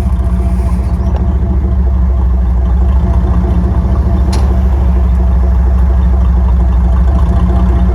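1992 GMC Sierra's 4.3-litre V6 idling loudly through an exhaust cut off before the muffler, leaving only the factory headers and catalytic converter: a steady, rapidly pulsing low rumble that settles a little higher in level over the first few seconds.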